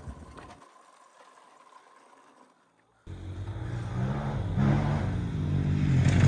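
A dirt bike or four-wheeler engine fades away, and the sound drops out completely for about half a second. Then an off-road engine comes in running, its pitch rising and falling with the throttle and growing louder toward the end.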